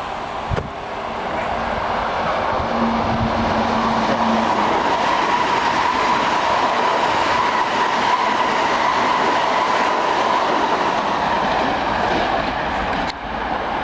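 Eight-car Long Island Rail Road electric train passing through the station at express speed: a steady rush and rumble of steel wheels on rail with a high ringing tone through the middle. It builds over the first couple of seconds and drops away near the end.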